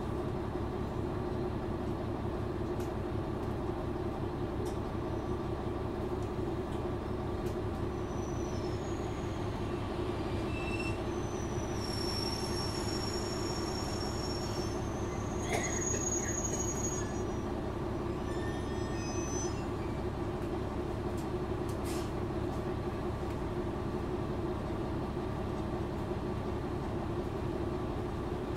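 JR Shikoku 1000 series diesel railcar running with a steady drone from engine and wheels on rail. High thin wheel squeals come in about halfway through and again briefly a few seconds later.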